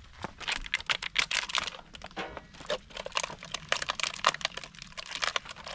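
Irregular dry crackling and snapping of kindling as a wood fire is being lit. The firewood is damp and the fire is not yet catching well.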